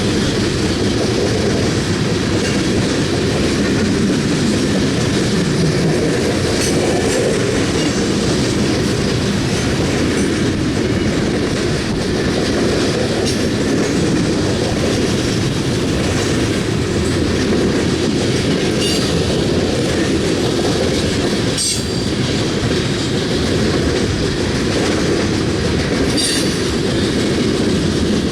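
Loaded coal hopper cars rolling past on the track with a steady clickety-clack of wheels over rail joints. Brief high wheel squeals come now and then.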